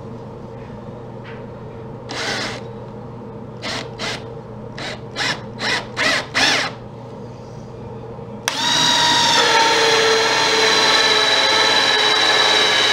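Power drill fitted with a hole saw, given several short bursts, then switched on at full speed about two-thirds of the way in and run steadily with a constant whine.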